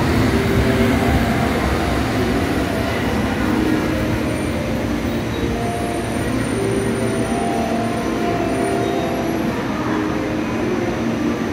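JR West 681 series electric multiple unit rolling slowly along the platform as it comes in to stop: a steady running rumble with several held squealing tones coming and going.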